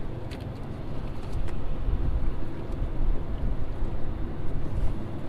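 Boat motor running steadily with a low hum, getting louder about a second in, with low wind rumble on the microphone.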